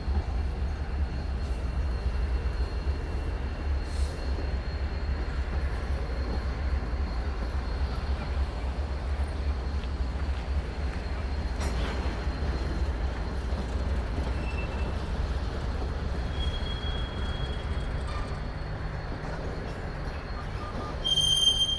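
Freight train rolling past with a steady low rumble of cars and wheels. Brief faint wheel squeals come in the middle, and a louder high-pitched wheel squeal starts in the last second.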